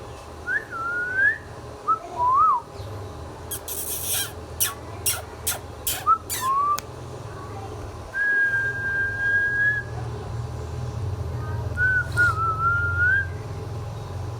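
Ringneck parrot whistling: short rising and falling whistles, then a long level whistle about eight seconds in and a wavering one near the end. A quick run of sharp clicks comes between about three and a half and six and a half seconds in.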